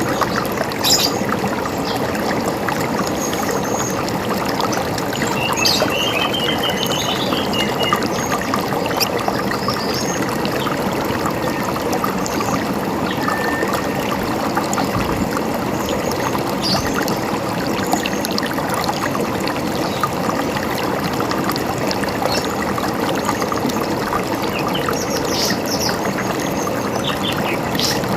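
A river running in a steady babbling rush, with birds chirping above it: short calls and a brief trill in the first several seconds, a few single chirps midway, and another cluster of calls near the end.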